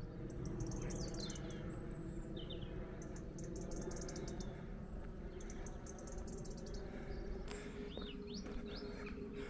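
Songbirds chirping, in quick trills of high notes with a few short rising calls near the end, over a low steady background rumble.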